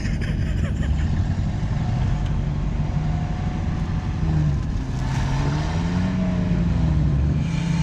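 Truck engine running hard under load during a tow through snow, its pitch rising and falling as the throttle changes.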